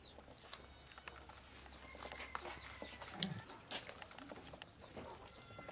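Faint birds chirping in short high calls over a quiet outdoor background, with scattered small clicks and one brief low sound about three seconds in.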